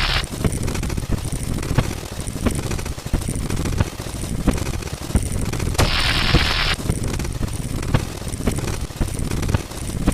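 A dense, rapid clatter of overlapping sound effects: irregular cracks and knocks over a low rumble, with a burst of hiss lasting about a second partway through.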